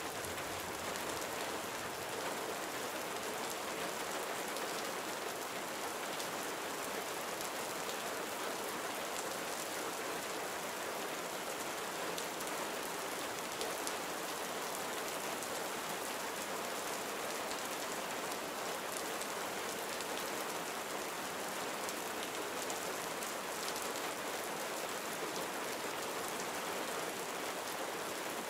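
Gentle rain falling steadily on surfaces, a soft even hiss with faint individual drop patter.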